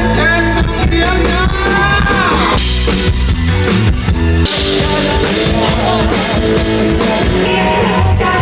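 Live band music played loud through the Z-Sound concert PA system: a singer's voice over drums, bass guitar and electric guitar, with heavy steady bass.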